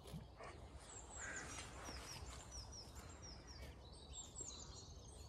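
Faint birdsong: small birds chirping in many short, high notes, some sliding down in pitch.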